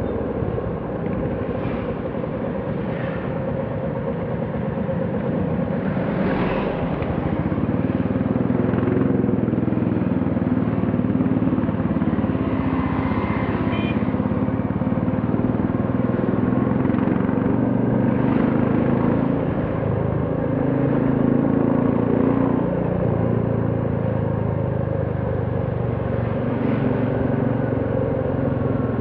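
Royal Enfield Classic 350's single-cylinder engine running steadily under way, its pitch rising and easing slightly with the throttle, over a steady haze of road noise.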